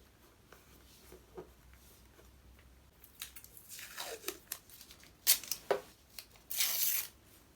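Paper and tape being peeled and torn by hand, in short rustling strips starting about three seconds in, with two sharp clicks a little past five seconds.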